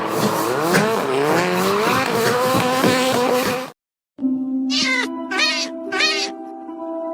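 A revving, engine-like sound whose pitch sweeps up and down, cut off abruptly a little under four seconds in. After a brief silence, music with a steady drone starts, and a cat gives three short, high meows over it.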